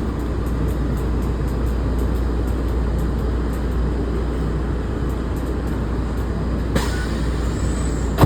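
Steady low rumble inside a Walt Disney World monorail car, with a sharp knock near the end.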